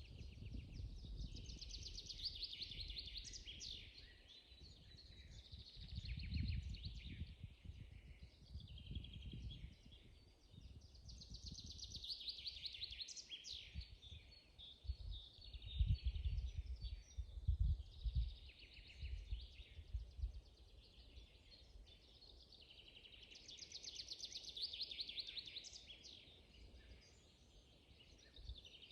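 Songbirds singing in a spring forest: trilling song phrases a few seconds long, repeated every few seconds. Intermittent low rumbles come and go underneath and are loudest around the middle.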